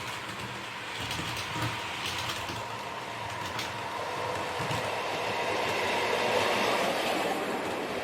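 HO-scale model train running along the layout track, its wheels clicking over the rail joints and its running noise growing louder toward about six seconds in as it comes close, then easing off.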